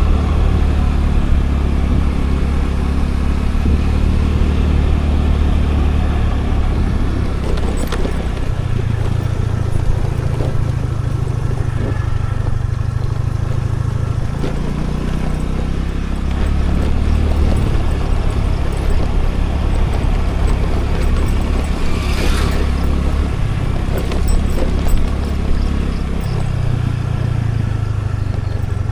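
Scooter engine running under way with road noise, picked up by an action camera on the scooter. The low rumble steps up and down in pitch several times, and a brief hiss rises about three-quarters of the way through.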